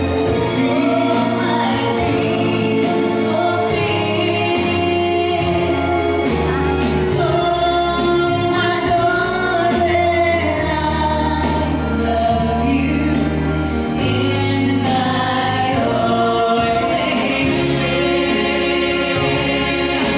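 A group of singers performing a song in choir-like, gospel-style harmony over a backing track or band with steady bass and a regular beat.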